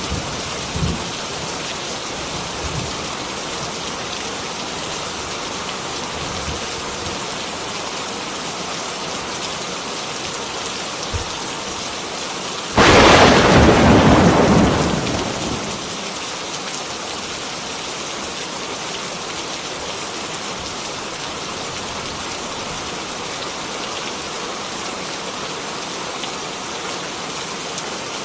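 Heavy rain falling steadily. About halfway through, a sudden loud clap of thunder breaks in, then rumbles away over a few seconds as the rain goes on.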